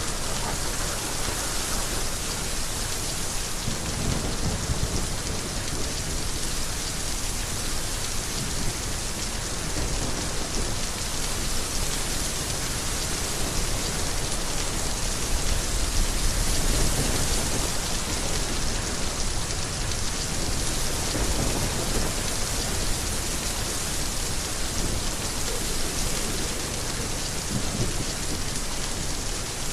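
Heavy rain falling steadily in a dense, even hiss, with low rumbles of thunder swelling up a couple of times past the middle.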